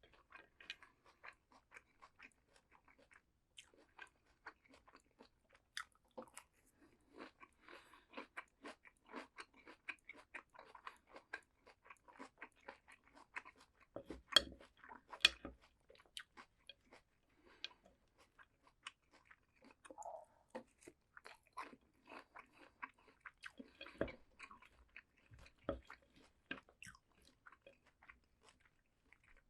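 Crunchy raw vegetables being bitten and chewed: a steady run of crisp crunches and chewing, with two louder crunches about halfway through.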